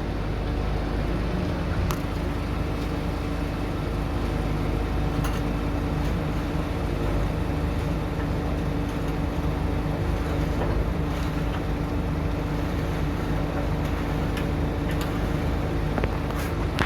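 Heavy diesel engine of a piling drill rig running steadily, with a few sharp metallic clicks or knocks scattered through it.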